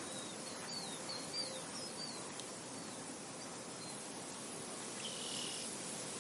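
Soft wind over a field, a steady even hiss, with small birds calling: a quick run of short high chirps over the first few seconds and one longer high note near the end.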